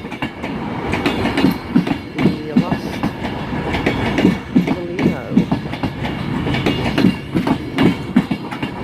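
Virgin Class 390 Pendolino electric train moving along the platform, with steady wheel-on-rail noise and repeated irregular knocks as the wheels cross rail joints.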